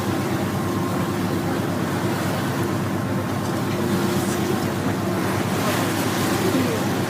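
Boat engine running at a steady drone, over rushing water and wind noise.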